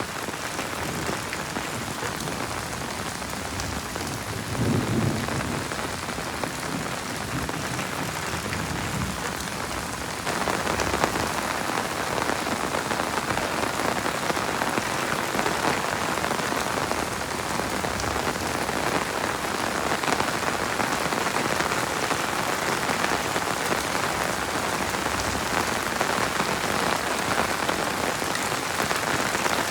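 Heavy rain falling and splattering on surfaces, a steady hiss. A brief low rumble comes about five seconds in. The rain grows louder about ten seconds in and stays that way.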